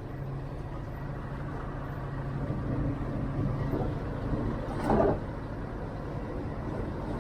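Heavy truck diesel engine running steadily under load, with one short loud burst of noise about five seconds in.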